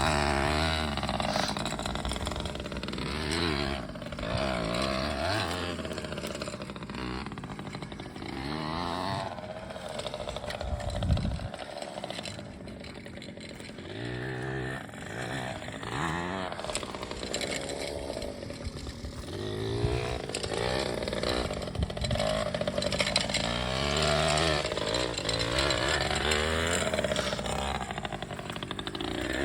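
Pit bike engine revving up and easing off again and again as it is ridden around a dirt track, its pitch rising and falling with each burst of throttle.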